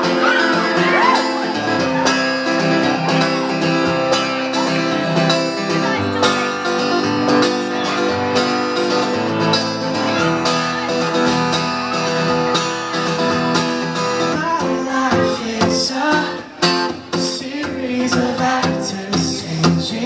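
Acoustic guitar playing a song intro live, strummed chords ringing on, with sharper strums in the last few seconds.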